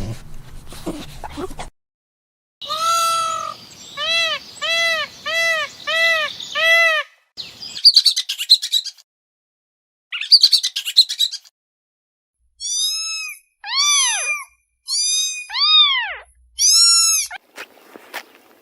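Bird calls in several bursts: about six arched notes at roughly two a second, then two harsh squawks, then a run of high, falling calls.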